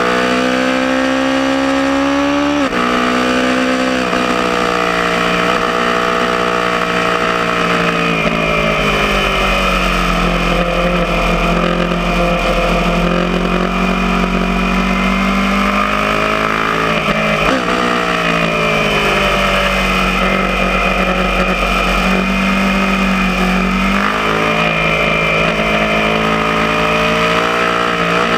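Aprilia Tuono motorcycle engine at speed on a race track, its revs rising and falling through the corners with several quick drops and climbs at gear changes, over a steady rushing noise.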